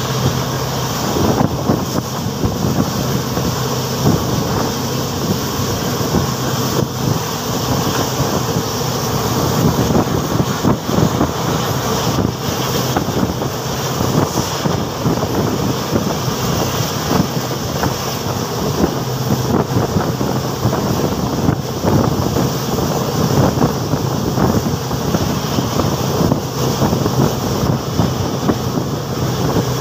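Passenger train running at speed, heard from outside a coach: a steady rush of wind on the microphone over the rumble of the coach wheels on the rails, with a low steady hum and a few faint clicks.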